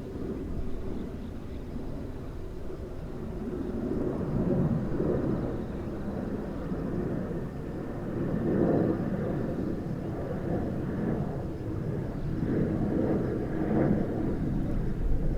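Low rumble of a Boeing 767's jet engines passing, swelling and easing several times.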